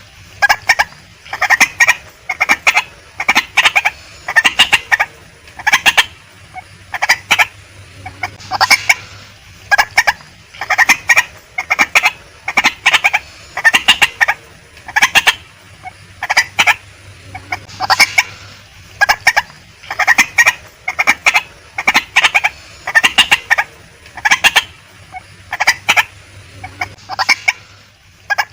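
Female white-breasted waterhen calling over and over: short clusters of sharp, clucking notes repeating roughly once a second.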